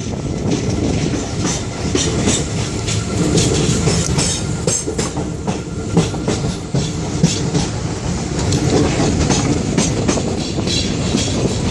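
Moving train running along the track: a steady rumble with wheels clacking over rail joints, two sharper clacks about six and seven seconds in.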